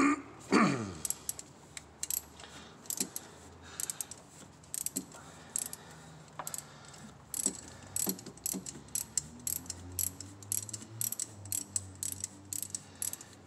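Socket ratchet clicking in irregular runs of short strokes as it turns a spark plug deep in a V8 engine bay. There is a brief falling squeak about half a second in.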